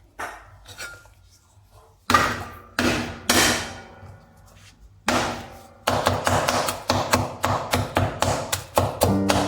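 Knife chopping on a cutting board: a few heavy separate strikes, then steady rapid chopping at about four strokes a second from about six seconds in.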